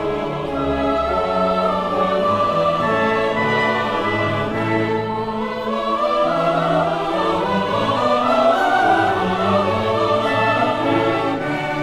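A symphony orchestra playing classical holiday music, with singing voices over it.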